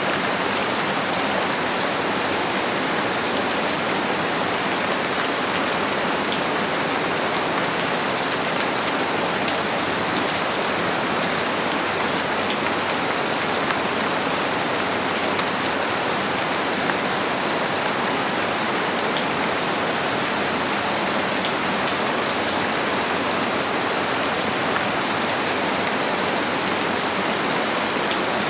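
Steady rain falling and pattering on a surface, a dense even hiss with many fine drop ticks throughout and no thunder.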